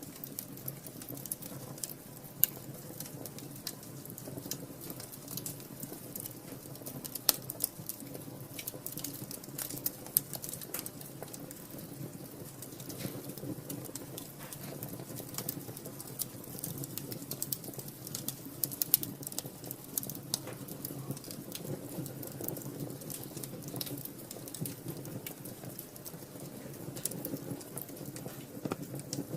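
Wood fire burning in a fireplace: constant crackling with scattered sharp pops over a low steady rush of flame. A few pops stand out louder, at about 2, 7, 10 and 19 seconds in.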